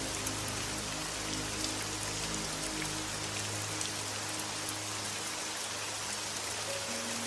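Steady rain, with single drops ticking through it. Underneath, soft background music plays long held low notes.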